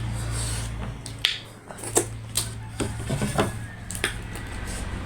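A person eating close to the microphone: a string of short, sharp clicking and crunching chewing sounds, spaced irregularly about half a second apart, over a low steady hum.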